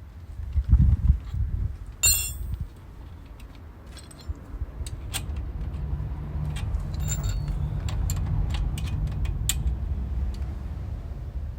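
Metal tools or parts being handled: a dull thump, then a sharp metallic clink that rings briefly, then scattered small clicks and taps over a low steady rumble.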